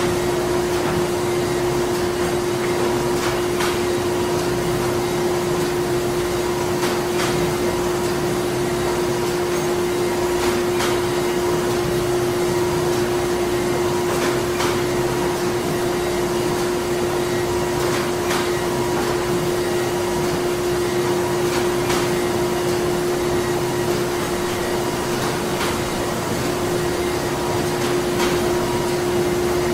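Printing-factory machinery running steadily: a continuous hum with one strong steady tone, with faint clicks scattered through it.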